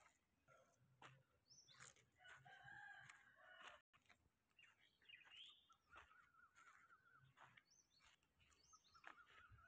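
Faint outdoor birdsong: scattered short chirps and whistles, with two longer wavering calls, one about two and a half seconds in and one about six seconds in.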